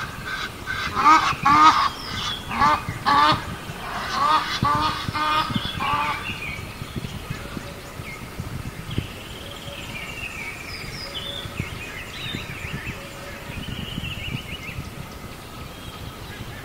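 Birds calling: a run of loud, short, repeated calls, about two a second, for roughly the first six seconds, then fainter, higher chirps and short whistles.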